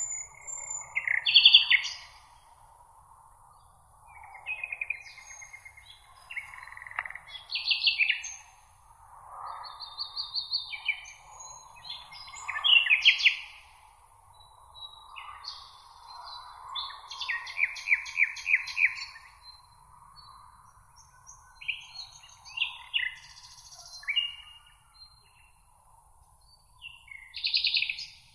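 Several small songbirds singing over a meadow: a steady run of short chirps, warbles and rapid trills from more than one bird, the loudest phrases near the start, around the middle and near the end. A faint steady hum of background noise sits underneath.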